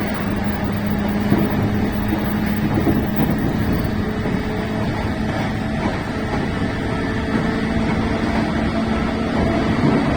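Keiyo Line rapid train running at speed, heard from inside the car: a steady rumble of wheels on the rails with a held low hum.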